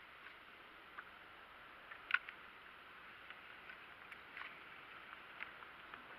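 Faint steady hiss with scattered light clicks and ticks, and one sharper tap about two seconds in.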